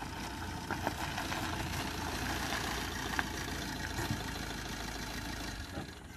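Small Maruti Suzuki car's engine running at low speed as the car creeps over a dirt track, with a few light clicks; the engine hum drops away near the end as it is switched off.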